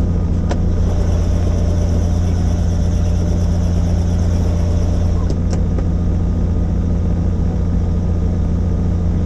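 Helicopter in flight: a steady, loud low drone of the rotor and engine. A higher whine comes in about a second in and fades after about five seconds, and there are a few faint clicks.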